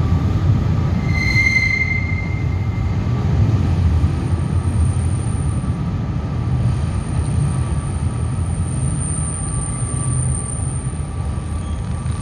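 GWR Class 158 diesel multiple unit pulling away with a low rumble from its underfloor diesel engines and wheels, slowly fading as it goes. A short wheel squeal comes about a second and a half in, and a thin high-pitched whine sets in a few seconds later and holds.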